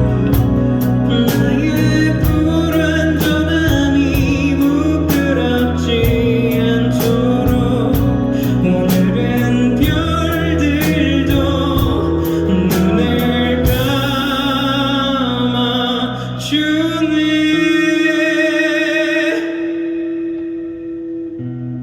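Indie rock band playing live with drums, guitar and voice, the drums hitting steadily for about fourteen seconds, then the band holding out final chords under a cymbal wash that fade away near the end.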